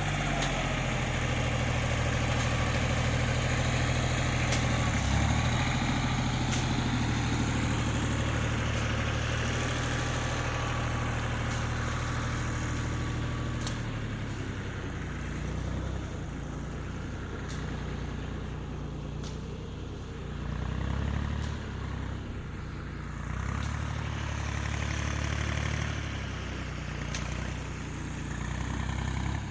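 Kubota tractor's diesel engine running steadily, its note and loudness shifting several times, with a few faint clicks.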